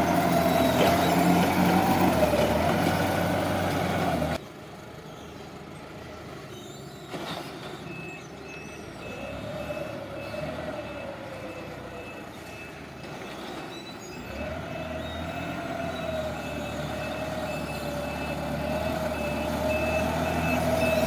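Counterbalance forklift working, its motor and hydraulics giving a whine that rises and falls. The sound drops suddenly about four seconds in. From about eight seconds a warning beeper sounds in a steady run of short high beeps, and the whine builds again later.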